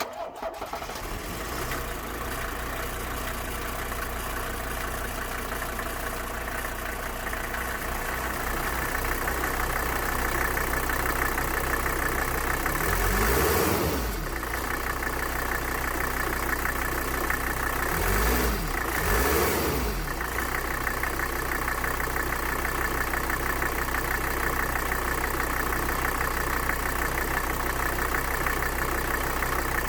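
Mercedes-Benz 300D diesel engine running, cold after standing for a year. It comes in suddenly, is revved up and let drop once about halfway through and twice more a few seconds later, then settles back to idle.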